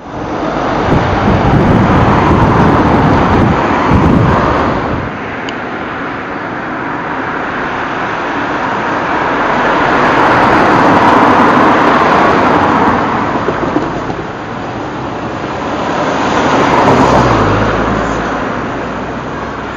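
Road traffic on the lane at a level crossing: vehicles passing one after another, the noise swelling and fading three times.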